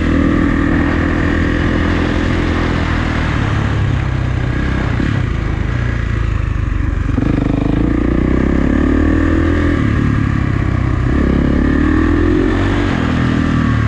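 Kawasaki KX450F dirt bike's single-cylinder four-stroke engine running under throttle, its pitch climbing in rising revs about halfway through and again near the end.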